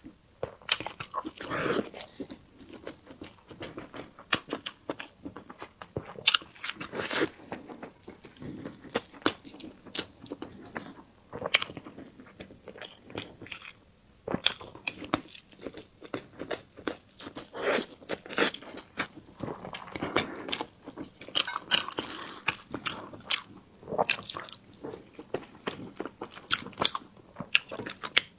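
Close-miked eating: a person biting and chewing food, with irregular sharp wet mouth clicks and squelches.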